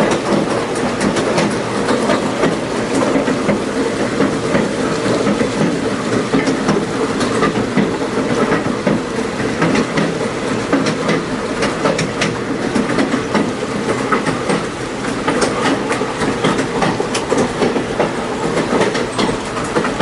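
Passenger train running on the rails, a steady rumble of the cars with frequent irregular clicks from the wheels over the track.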